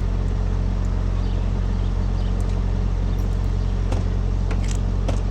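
A vehicle engine idling steadily as a constant low hum, with a few short clicks near the end.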